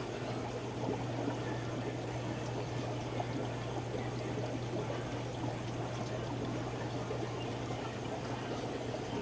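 Aquarium filtration running: steady trickling, splashing water from filters and overflows over a constant low electrical hum of pumps.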